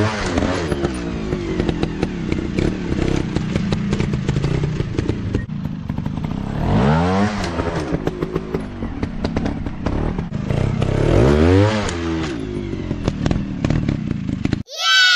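Dirt bike engine running hard over rough ground, revving up sharply three times, with rattling and knocks from the bike. Half a second before the end it cuts off abruptly into a short falling tone.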